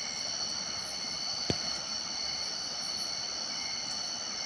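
Crickets trilling steadily in several high pitches at night, with a single faint click about a second and a half in.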